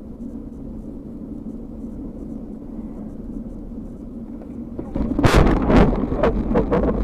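Steady low road and engine rumble of a car heard through a dashcam. About five seconds in it gives way to a sudden, much louder rush of noise broken by a rapid series of sharp knocks.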